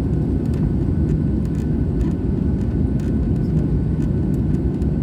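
Airliner noise: a steady low rumble of jet engines and airflow that holds level, with faint light clicks above it.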